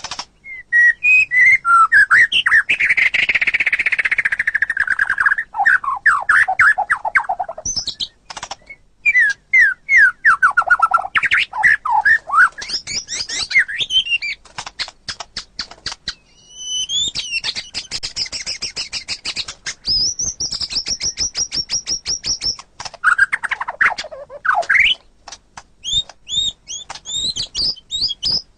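White-rumped shama (murai batu) singing a long, varied song: loud whistled phrases that sweep up and down, alternating with runs of rapid dry chattering notes, many a second.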